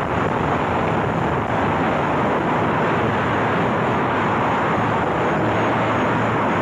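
Loud, steady engine noise with no breaks or changes.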